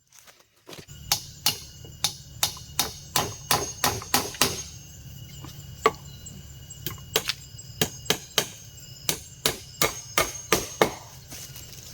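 Repeated strikes of a hand tool on wood, chopping or hammering, about three blows a second in two runs with a short pause between.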